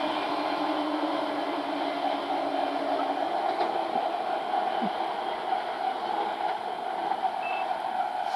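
Electric multiple unit (EMU) suburban train running along the track, a steady running noise of wheels on rail, with a low hum that stops about three seconds in.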